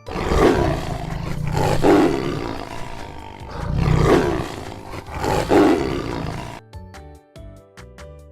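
Tiger roaring four times, each roar swelling and fading. Children's background music plays on after the roars stop near the end.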